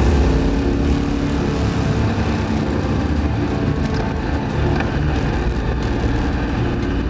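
KTM 1290 Super Adventure V-twin with an Akrapovic exhaust, running steadily as the motorcycle is ridden through bends, heard from on board the bike.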